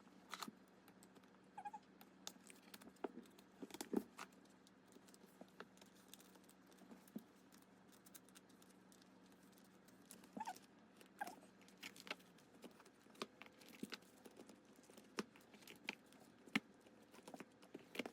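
Faint, scattered clicks and rustles of photocards and plastic binder sleeves being handled, a few taps at a time with quiet gaps between.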